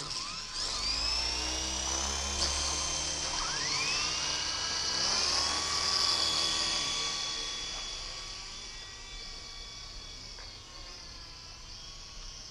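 Two WLtoys V912 RC helicopters flying, their small electric motors and rotors giving a high-pitched whine. The pitch rises about a second in and again around three and a half seconds as the throttle goes up, then holds steady and grows fainter over the last few seconds.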